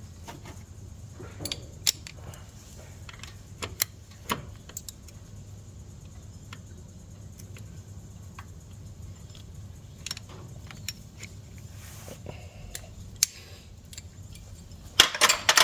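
Small metal tools and parts clinking and tapping: scattered sharp clicks, with a quick run of louder clicks near the end.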